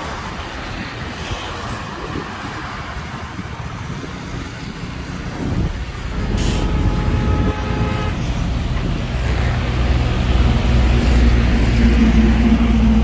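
Heavy diesel dump truck engine running, growing louder about six seconds in. A short hiss of air comes just after, and a steady tone sounds for about two seconds.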